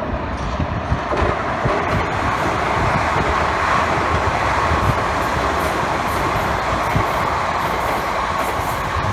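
A train passing close by: a steady rush of wheels on rail that builds over the first few seconds, with occasional clicks from the rail joints.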